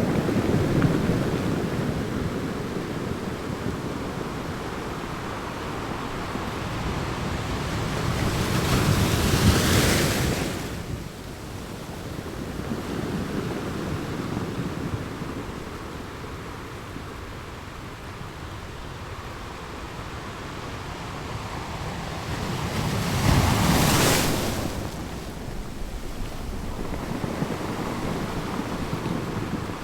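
Sea waves breaking on a sandy beach: a continuous surf wash with two bigger waves swelling and crashing, about ten seconds in and again near the end, with wind on the microphone.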